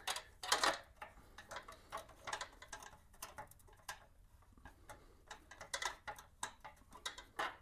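Light, irregular clicks and ticks of a short bolt being screwed in and tightened against the chrome wheel trim, metal tool on metal.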